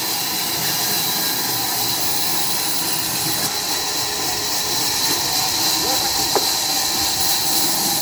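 Steady hissing noise, strongest in the high range, with a few faint voice-like sounds in the background.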